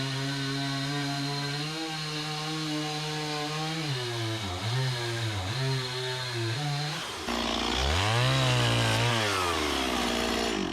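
Two-stroke Stihl chainsaw running under load as it cuts through a red oak log. The engine note holds steady, then dips and recovers several times. About seven seconds in it turns louder and rougher, with the pitch rising and then falling, before stopping abruptly at the end.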